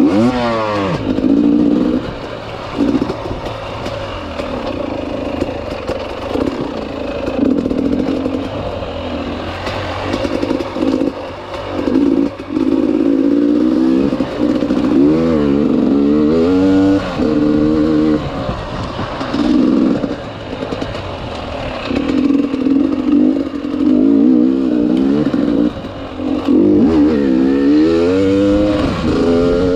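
Enduro motorcycle engine working hard, revving up and easing off again and again, with several rising climbs in pitch: near the start, around the middle and near the end.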